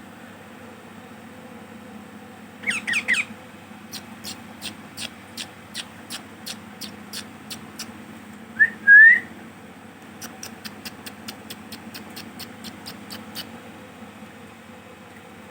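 Young ringneck parrots calling: a quick burst of short harsh calls about three seconds in, then a loud rising whistled call near the middle. Between and after the calls come runs of evenly spaced sharp clicks, faster in the second run, over a steady low hum.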